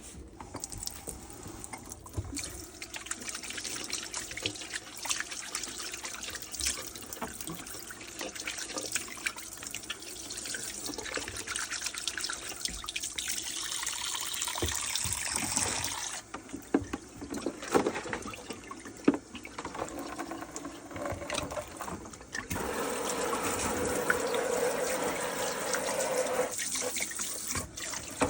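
Tap water running into a kitchen sink, louder in two longer stretches, with scattered small knocks and clicks.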